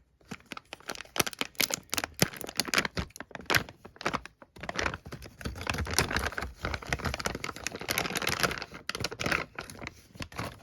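Packaging crinkling and rustling, with many quick clicks and taps, as a boxed model glow engine and its parts are unwrapped and handled.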